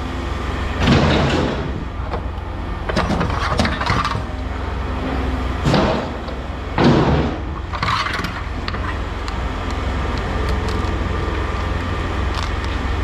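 An engine running steadily, with about five loud crunching, splintering breaks in the first eight seconds as wood is torn out of scrap.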